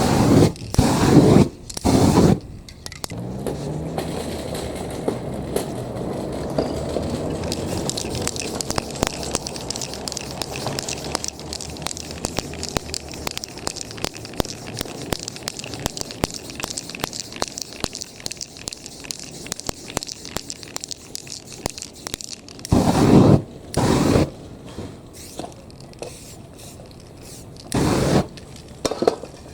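Short loud hissing blasts from aerosol spray-paint cans, several near the start and three more near the end. Between them runs a long stretch of crackling, scraping noise as the painting is worked.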